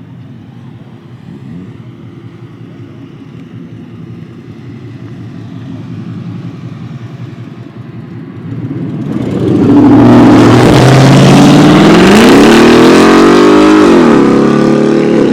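Car engine revving hard and very loud, its pitch climbing and then dropping back. It comes in about nine seconds in, over a quieter steady engine sound.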